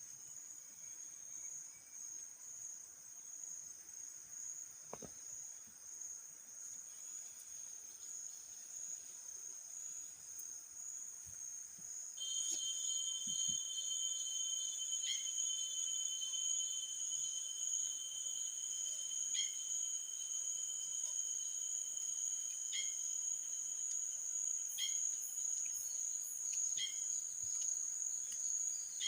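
Forest insects trilling steadily at a high pitch. About twelve seconds in it gets louder and a second, lower trill joins, with short calls repeating every couple of seconds.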